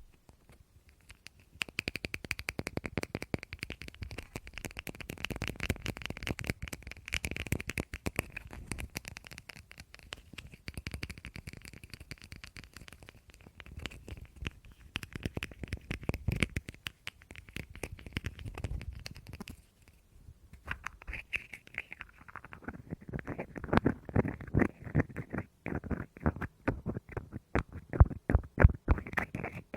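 Close-miked ASMR tapping on objects: fast, dense taps and light scratches, several a second, stopping briefly about twenty seconds in and then resuming, with the hardest taps near the end.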